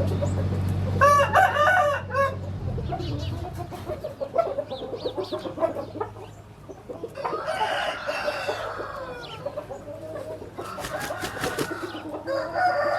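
Roosters crowing three times, with shorter clucking calls between the crows.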